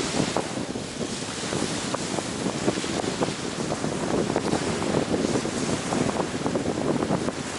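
Ocean surf washing onto the shore: a wave surges in at the start, followed by a continuous rushing wash of water with many small crackles of foam and water.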